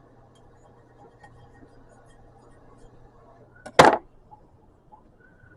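A single sharp clink of kitchenware, such as a dish knocked or set down, about four seconds in, over a faint steady hum.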